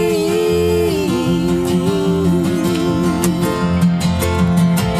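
Live acoustic band music: strummed acoustic guitar under a long held melody note for the first three seconds or so, then the guitar strumming on between sung lines.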